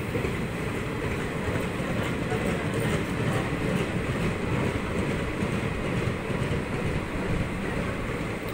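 Indian Railways passenger coaches rolling past on the track, a steady rumble of steel wheels on the rails.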